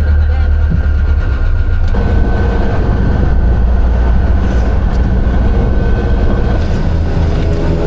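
Wind buffeting the microphone and road noise while riding in the open back of a moving pickup truck: a loud, steady rumble.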